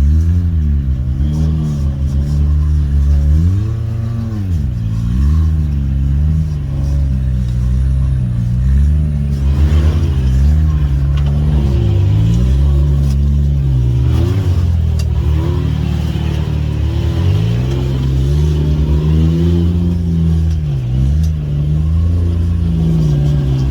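A Can-Am Maverick X3 side-by-side's turbocharged three-cylinder engine is driven over rough trail. Its revs rise and fall again and again as the throttle is worked on and off.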